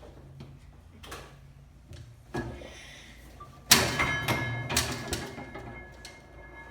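A hydrogen-fuelled Nikolaus Otto engine firing once: a sudden bang a little past halfway, followed by metallic clattering and ringing that fades over a couple of seconds. A few light clicks come before it.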